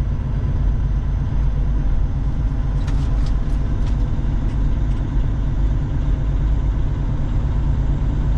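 Truck engine running steadily with a low rumble, with a few light clicks about three seconds in.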